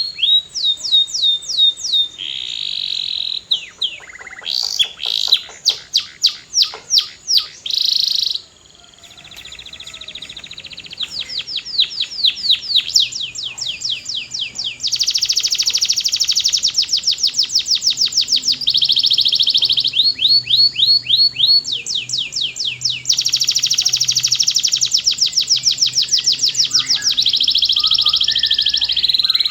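Male canary singing loudly: fast runs of repeated rising and falling notes and rapid trills, with a brief pause about eight seconds in.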